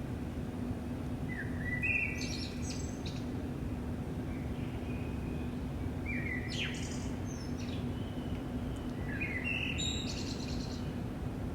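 A songbird singing three short phrases a few seconds apart, over a steady low hum and rumble.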